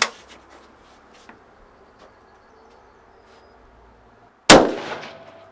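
A single loud shot from a Mauser Karabiner 98k bolt-action rifle firing 8mm Mauser, about four and a half seconds in, its report ringing off over about a second.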